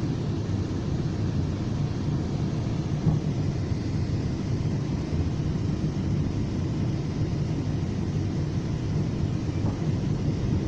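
Steady low rumble of a FrontRunner commuter train running along the line, heard from inside the passenger coach.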